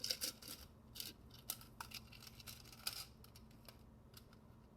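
Faint clicks, scrapes and light rustles of a tennis bracelet and its tag being handled, coming in quick irregular bursts over the first three and a half seconds, then stopping.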